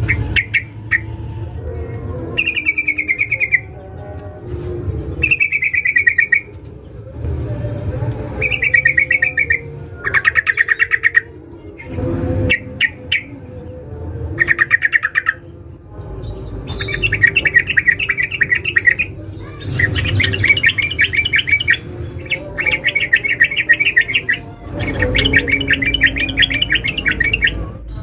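Female sooty-headed bulbul (trucukan) giving rapid, trilled chattering phrases, one every second or two, with the later ones longer and denser. This is the female's call to a male, the kind of call used to lure bulbuls.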